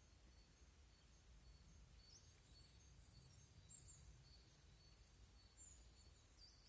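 Near silence in a swampy wood, with faint birdsong: a thin high note repeating at a steady pace, joined about two seconds in by brief chirps and short whistled phrases, over a low rumble.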